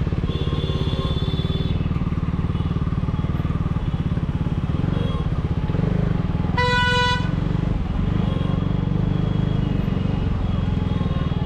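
A KTM Duke 390's single-cylinder engine, fitted with an aftermarket dual exhaust, running steadily with a loud, deep exhaust note. About seven seconds in, a vehicle horn sounds once, briefly.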